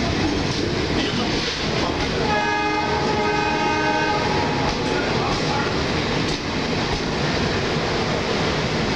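Coaches of an Indian express train rolling past as it picks up speed out of the station, a steady loud rumble of wheels on rail. A horn sounds about two seconds in and holds for roughly two seconds.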